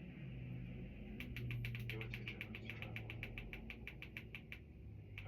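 Faint soundtrack of a film playing in the background: a low sustained tone that swells and fades. In the middle of it comes a quick, even run of light ticks, about seven a second, for roughly three seconds.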